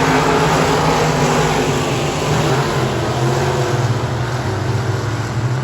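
Vehicle engine running at fairly steady revs, slowly getting a little quieter.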